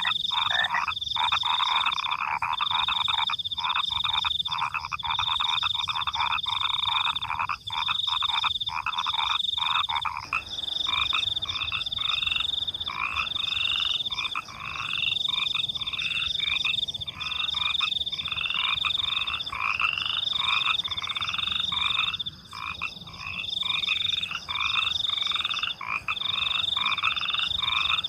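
Night chorus of frogs croaking and crickets chirping. A high trill pulses on and off about once a second throughout. A dense mass of croaking thins out about ten seconds in, leaving a regular, rhythmic run of calls.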